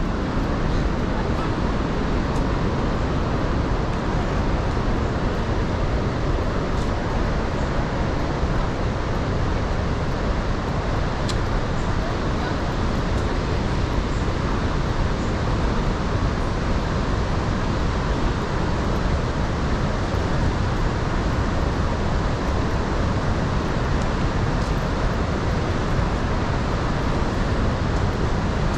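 Steady roar of the Iguazu Falls waterfalls, an even rushing noise heaviest in the low end.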